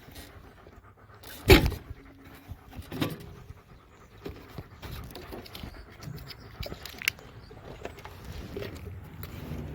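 German Shepherd panting, with small rustles and clicks around it. A sharp loud thump about a second and a half in and a softer one about three seconds in.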